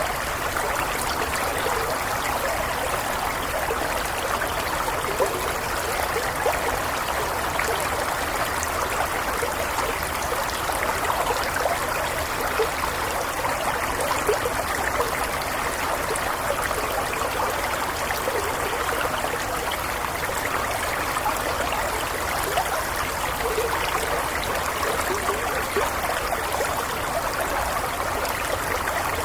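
A shallow stream flowing and burbling steadily over stones, a constant bubbling trickle of water.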